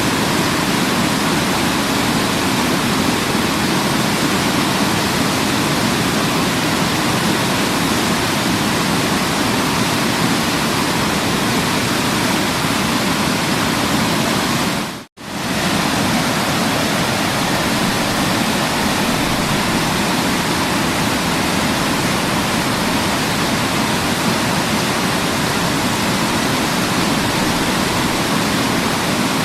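Waterfall rushing in a steady, even roar of water noise, which cuts out for a split second about halfway through before resuming unchanged.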